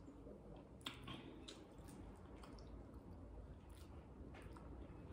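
Faint chewing of rice and sautéed broccoli, with soft, irregular mouth clicks and squishes.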